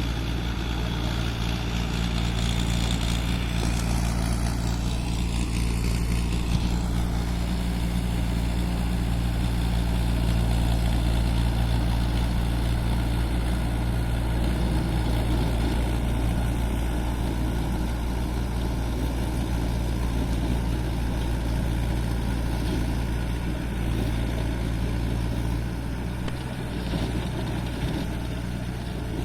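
Mahindra Arjun tractor's diesel engine running steadily while driving a rotavator, a constant low engine tone with no change in speed.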